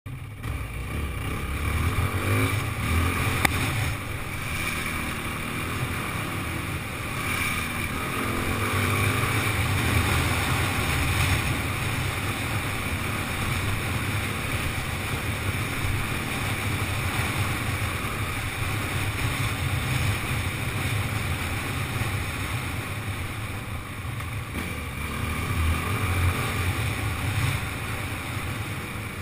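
Yamaha WR450F dirt bike's single-cylinder four-stroke engine running under way on a gravel track, the revs rising and easing off a few times as the rider opens and closes the throttle.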